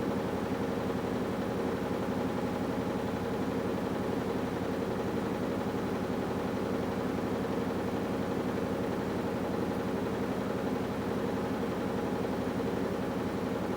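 AQUA top-loading washing machine with a direct-drive inverter motor running, a steady mechanical hum with no breaks.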